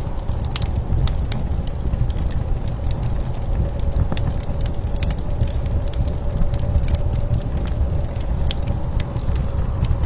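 Wood fire crackling with frequent sharp pops, over a steady low rumble of blizzard wind.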